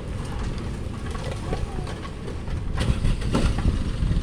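Truck engine running with a steady low rumble, with a few sharp knocks and scrapes about three seconds in.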